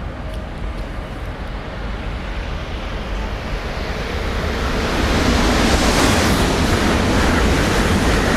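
Shinkansen bullet train running through a station at speed without stopping: a rushing noise of air and wheels that grows louder from about two seconds in and stays loud through the second half.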